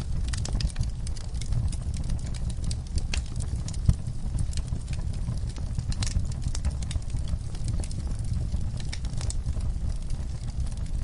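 Wood fire crackling in an outdoor fireplace: frequent sharp pops and snaps over a steady low rumble, with one louder pop about four seconds in.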